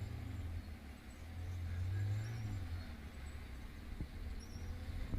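Low rumble of a motorcycle riding along a road with traffic, swelling about two seconds in.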